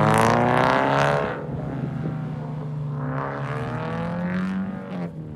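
Car engine revving hard as the car drives off, with a loud climb in pitch in the first second, a drop, then a second, weaker climb about three to four and a half seconds in before it fades.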